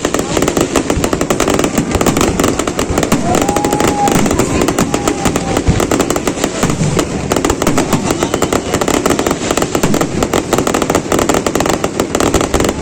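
Fireworks going off in a dense, continuous barrage of rapid crackling bangs, many each second. A brief rising whistle sounds about three seconds in.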